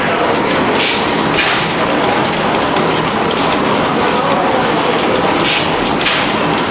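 Old stationary internal-combustion engines running, a steady mechanical clatter full of quick irregular clicks.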